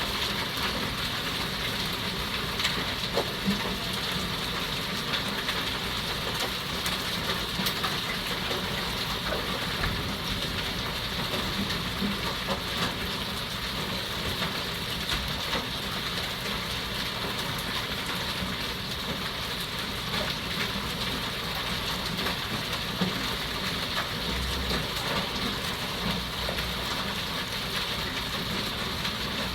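Heavy hail and rain pelting down steadily on roofs and cars, with scattered sharper hailstone impacts.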